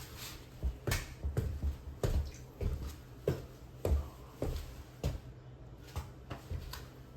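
Irregular light knocks, taps and clicks, about a dozen spread unevenly, from objects being handled and set down during the repair work, over a low steady hum.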